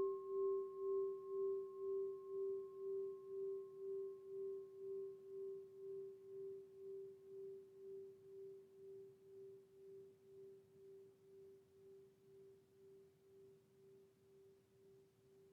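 A singing bowl ringing out and slowly fading, its low tone wavering in loudness about one and a half times a second. A fainter higher overtone dies away first, about halfway through.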